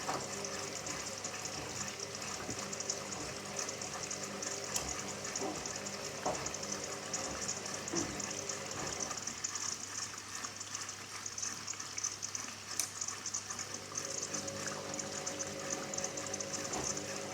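Hoover Dynamic Next washing machine with water rushing through it: a steady hiss of incoming water, with a faint hum and a few soft knocks.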